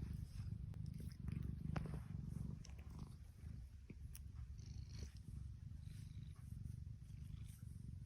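A domestic cat purring, a steady low rumble with a few faint ticks over it.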